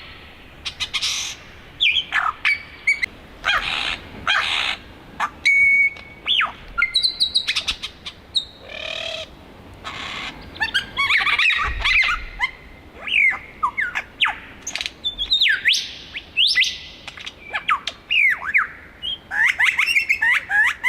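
Superb lyrebird singing a fast, ever-changing run of mimicked calls: sharp rising and falling whistles, quick chirps and a few short harsh bursts, one after another.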